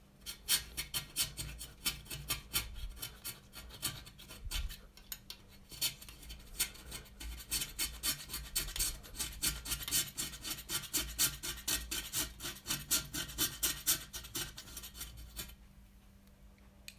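Utility-knife blade scraping stubborn soot off fireplace glass in rapid short strokes, about three a second, stopping shortly before the end.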